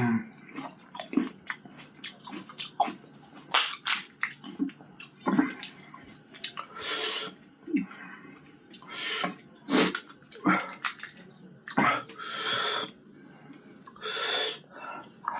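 Close-up eating sounds of pani puri: crisp puri shells crunching between the teeth, with several wet slurps and hissing breaths as the puris are eaten with their spicy tamarind water.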